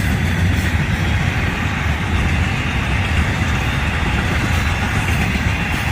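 Florida East Coast Railway freight train FEC-107 rolling past on the track: a steady, even rumble of railcars on the rails.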